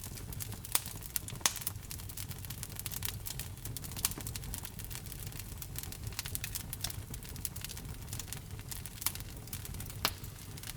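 Wood fire crackling in a fireplace: frequent sharp pops and snaps over a low, steady rumble of the flames, with a few louder pops about a second in and near the end.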